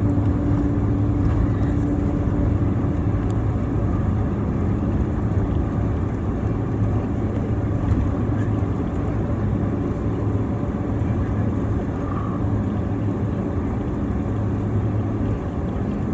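Steady low hum and rumble of a Boeing 767-300ER's engines and airframe heard from inside the passenger cabin, as the airliner rolls on the runway or taxis after landing. A higher steady tone fades out a few seconds in.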